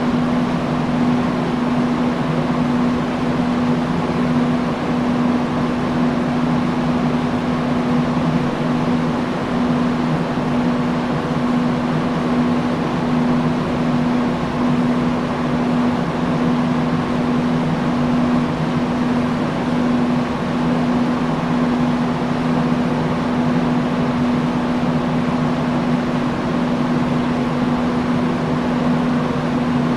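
Industrial fan running steadily: an even rush of air with a constant low motor hum.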